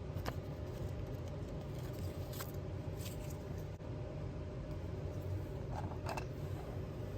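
A few light clicks and taps from handling small craft pieces, spaced a second or more apart, over a steady low background hum.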